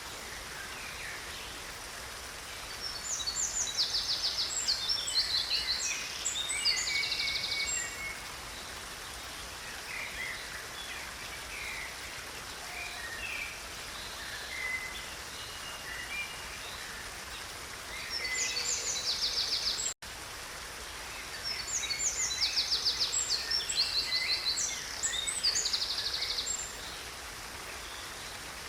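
A steady rush of running stream water, with songbirds singing bright, rapid trilled phrases over it in two bouts: one a few seconds in and one in the second half. There is a split-second gap in the sound partway through.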